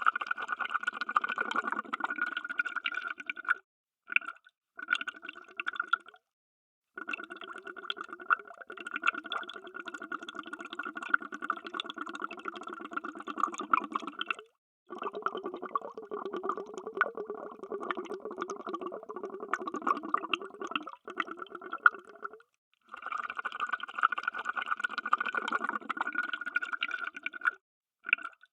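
Underwater bubbles streaming, a dense bubbling made of many small pops. It comes in stretches of a few to several seconds, with short silent breaks between them.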